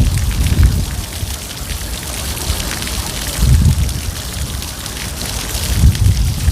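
Rain falling steadily with a constant hiss, and deep low rumbles swelling near the start, about midway and again near the end.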